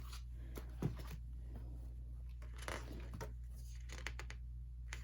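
Pages of a photo book being turned by hand: scattered soft paper rustles and light taps, one sharper tap about a second in, over a steady low hum.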